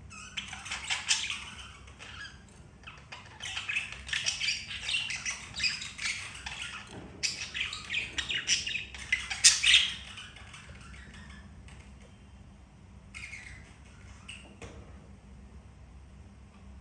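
Budgerigar chattering and chirping in rapid bursts for about the first ten seconds, then falling quiet apart from a short call and a few faint clicks.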